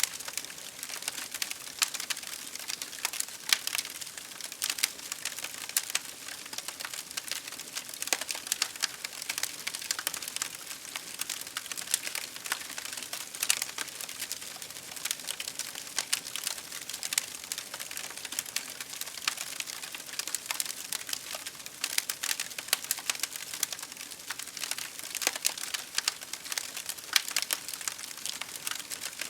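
Campfire crackling steadily, with many quick irregular pops and snaps over a soft hiss.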